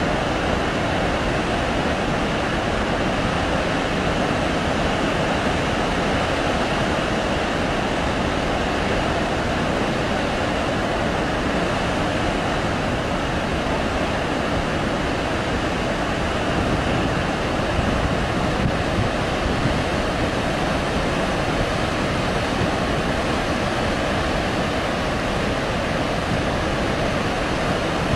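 Large volume of water rushing out of Tarbela Dam in a steady, unbroken noise, swollen by heavy rain.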